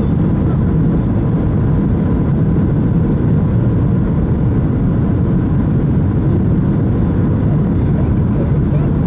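Steady cabin roar inside a Boeing 737-600 from its engines and rushing air, deep and unchanging, with a faint steady tone above it.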